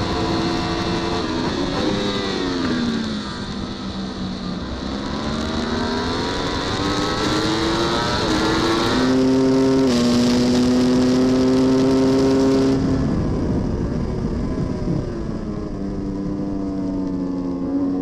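Superbike racing engine heard onboard, revving hard. Its pitch falls early on under braking, then climbs through the gears with sudden steps at each upshift. It holds high for a few seconds, drops again under braking and climbs once more near the end.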